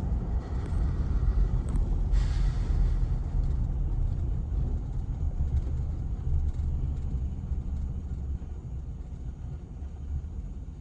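Low, steady rumble of a 2005 Cadillac Escalade with its 6.0-liter Vortec V8, with a brief hiss about two seconds in, easing off slightly near the end.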